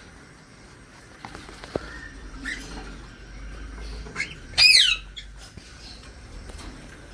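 A parrot squawks: a short call, then a loud harsh one falling in pitch about four and a half seconds in. A few fainter calls and small knocks come earlier.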